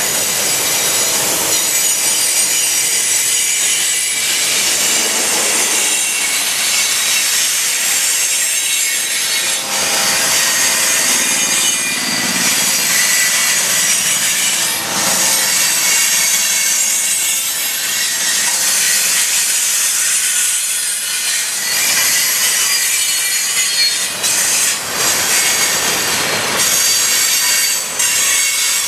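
Loaded freight cars rolling past close by: steel wheels on the rail give a steady, high-pitched grinding hiss with faint squealing tones running through it. A few sharp knocks come near the end.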